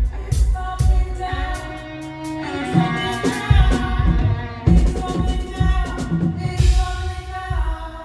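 Live praise band playing: a drum kit with a heavy kick drum and cymbal crashes under singing and sustained chords.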